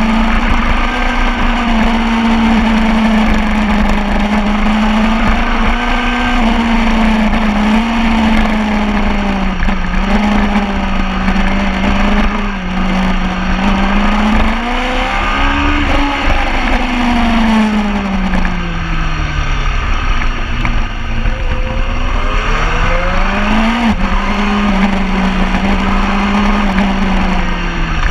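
Sport motorcycle engine running hard on a race track, its pitch climbing and dropping as the throttle is opened and closed, with a sharp rise and fall near the end.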